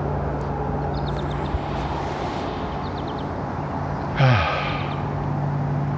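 Steady distant traffic hum under outdoor ambience, with quick high bird chirps recurring every couple of seconds. About four seconds in there is a brief sigh, falling in pitch.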